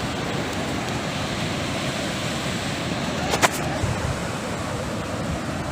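Steady rush of fast-flowing floodwater, with one sharp click about three and a half seconds in.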